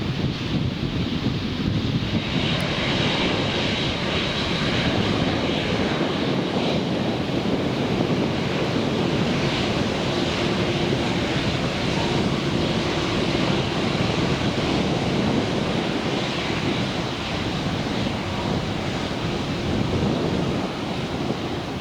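Jet engines of a large airliner running loud and steady, a high whine joining the low rumble about two seconds in.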